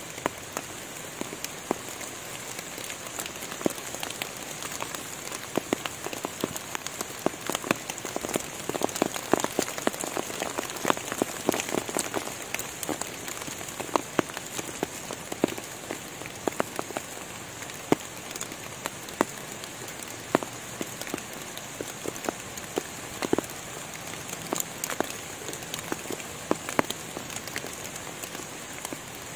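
Rain falling on forest leaves and leaf litter: a steady patter with many separate drops ticking, thickest about a third of the way in, over a steady high hiss.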